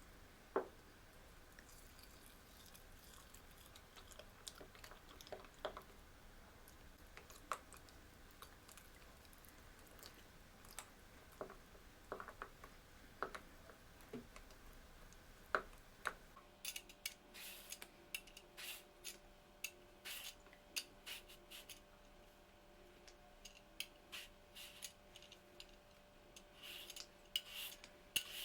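Faint kitchen food-prep sounds: scattered light clicks and taps of utensils and food being handled. About halfway through the clicks grow quicker and busier, and a faint steady hum comes in beneath them.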